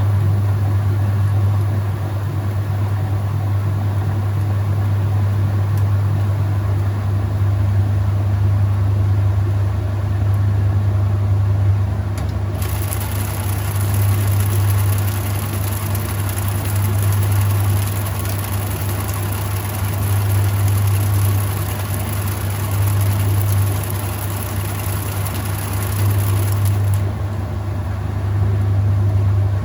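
Whirlpool top-load washing machine running, a steady low motor hum swelling and easing about every three seconds. A hiss joins it for about fifteen seconds from near the middle.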